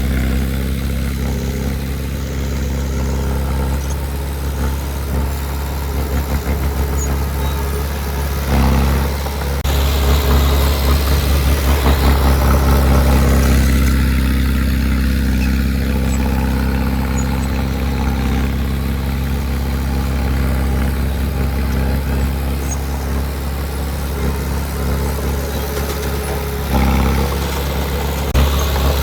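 Diesel engine of heavy earthmoving equipment running steadily, with a deep low hum that grows louder about nine seconds in and again near the end.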